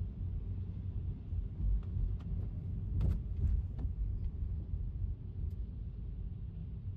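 Low, steady rumble of an electric car driving on a wet street in the rain, with a scatter of short ticks around three seconds in.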